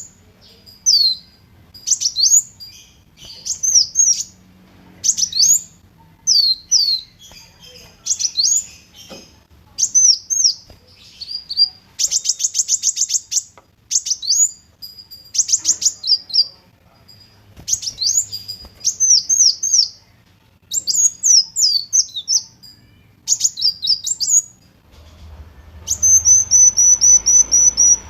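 Kolibri wulung (a sunbird) singing: clusters of quick, high, downward-sweeping chirps about once a second, broken by a fast buzzy trill about halfway through and a rapid, even trill near the end.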